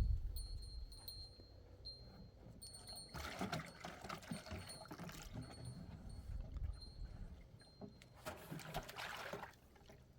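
Water pouring or trickling in two spells of a couple of seconds each. A faint high chirp repeats about twice a second throughout.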